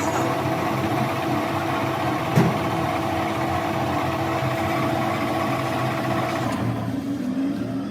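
A machine's motor running steadily with a steady hum, with a single knock about two and a half seconds in; near the end a higher tone drops out and the running grows quieter.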